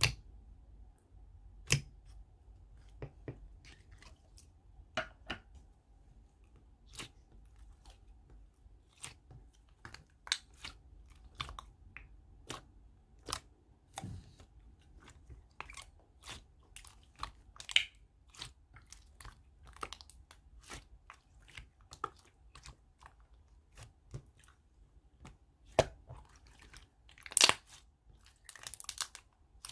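Kiwi slime being squeezed and poked by hand, giving irregular sharp clicky pops and crunchy crackles, with a denser run of louder pops near the end.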